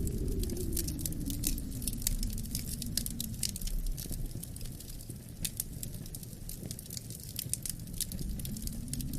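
Wood fire crackling with many small sharp pops, over a low wind that eases off in the middle and picks up again near the end.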